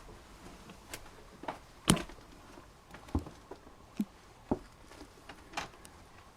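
A series of irregular knocks and clicks with no steady rhythm. The sharpest knock comes about two seconds in.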